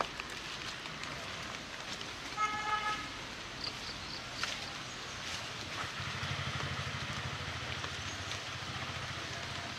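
Steady rain hiss with a short vehicle horn toot about two and a half seconds in. From about six seconds the low, pulsing rumble of a road vehicle's engine joins the rain.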